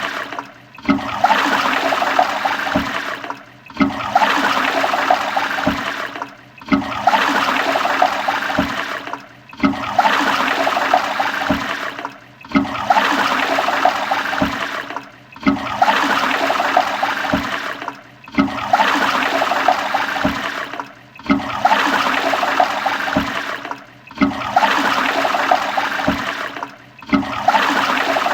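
Toilet flushing: a rush of water that cuts off and starts again about every three seconds, the same flush repeated about ten times over.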